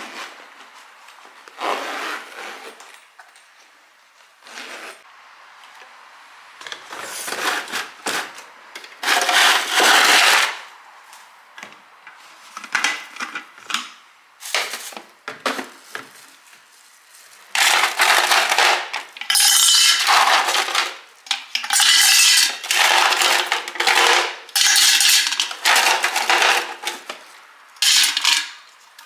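Dishes and metal utensils clinking and scraping in a string of short, irregular bursts, with short pauses between them.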